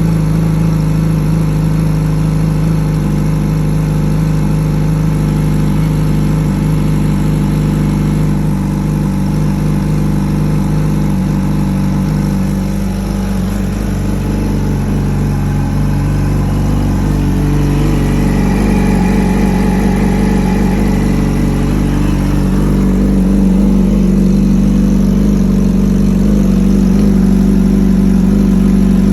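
Yamaha R6's inline-four engine idling through a full Akrapovic exhaust while warming up after a cold start. The idle is steady, with its pitch dipping slightly near the middle and settling a little higher later on.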